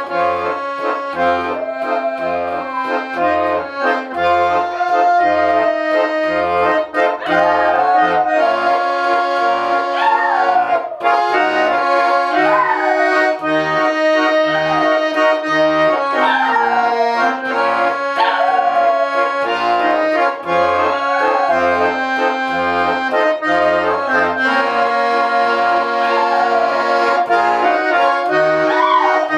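Garmon (Russian button accordion) playing a slow song melody in held chords. The left hand keeps a steady, even bass-and-chord accompaniment underneath.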